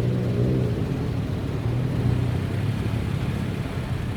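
Car engine running with a low, steady drone, as a sports car idles.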